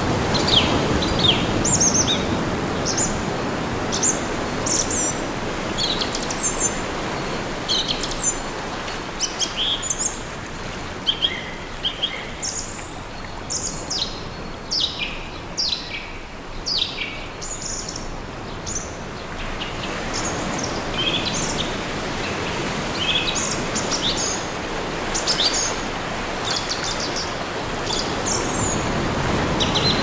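Small birds chirping in many short, quick calls, over the soft wash of gentle waves on a beach. The wash swells near the start and again near the end.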